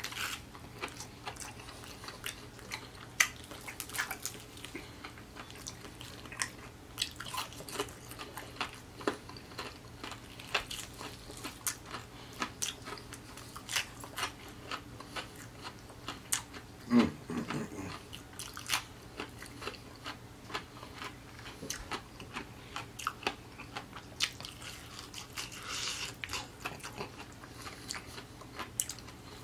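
Chewing and biting into crispy fried chicken: a steady run of short crunches from the fried coating along with wet mouth sounds. About halfway through there is a brief low sound from the voice.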